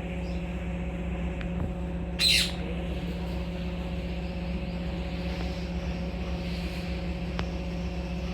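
A single short bird call, sweeping down in pitch, about two seconds in, over a steady low hum.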